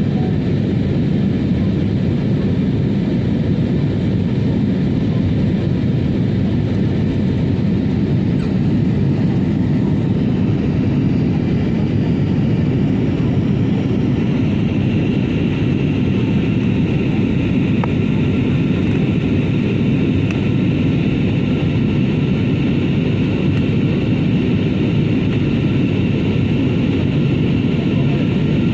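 Cabin noise on a passenger airliner during take-off and climb: a steady, loud rush of the aircraft's engines and airflow. A faint high whine strengthens about halfway through.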